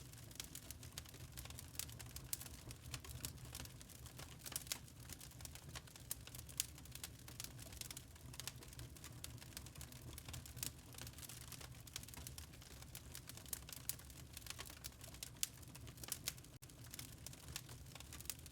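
Log fire crackling in a fireplace: dense, irregular pops and snaps of burning wood over a low steady rumble.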